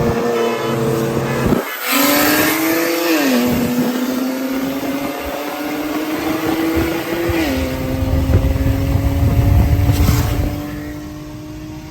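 Single-turbo BMW 335i's turbocharged inline-six pulling at full throttle on wastegate boost. The engine note climbs steadily through each gear and drops at two upshifts, about three seconds in and again about seven and a half seconds in.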